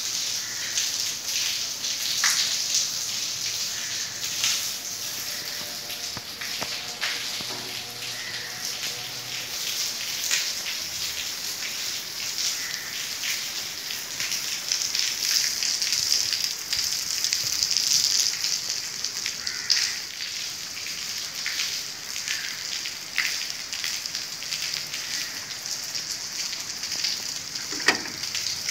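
Heavy rain pouring steadily onto a flooded paved courtyard and puddles, a dense hiss with scattered splashes. A single sharp knock comes near the end.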